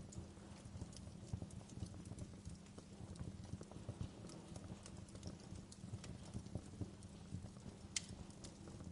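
Wood fire crackling, with many small pops over a low steady rumble and one sharper pop about eight seconds in.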